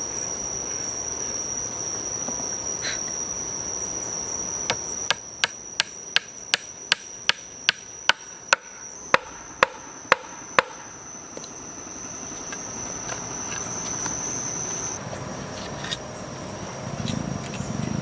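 A run of about fifteen sharp knocks, two or three a second, from about five seconds in to about eleven, like a tool striking wood. Under it a steady high-pitched insect drone stops near the end.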